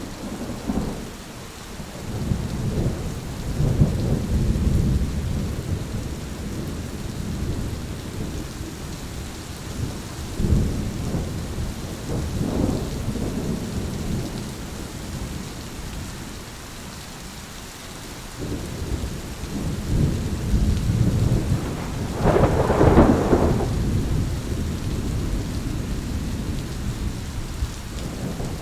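Thunderstorm: steady rain under rolling thunder that keeps swelling and fading, with a sharper, closer clap about two-thirds of the way through.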